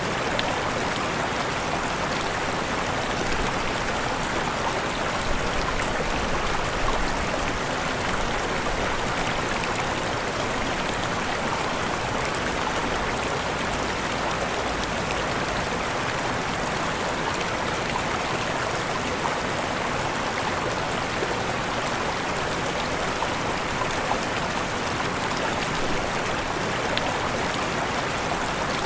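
Waterfall: steady, even rushing of falling water with no change in level.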